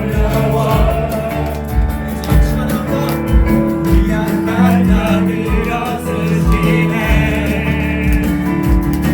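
Christian worship song played by a band with a steady drum beat and bass, with singing over it.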